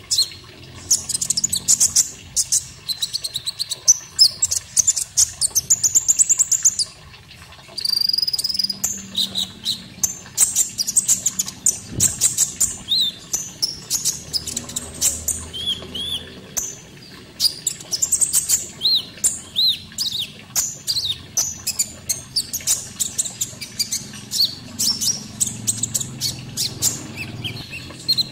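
Konin songbird singing a rapid, dense run of high chirps and trills, with a short pause about seven seconds in.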